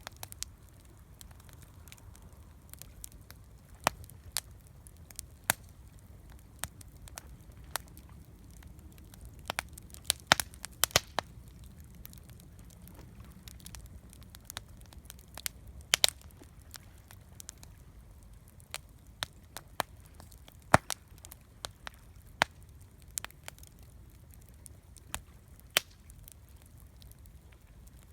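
Wood campfire crackling: irregular sharp pops and snaps, some much louder than others, over a low steady rumble.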